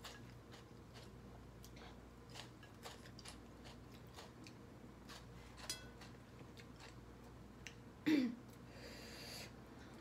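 A person chewing food at close range, with small wet mouth clicks and smacks. About eight seconds in comes a short voiced sound, then a breathy hiss lasting about a second.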